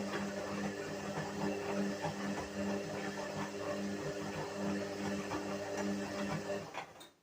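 Whirlpool washing machine running a wash, its motor turning the drum with a steady hum and many small clicks, then stopping about seven seconds in.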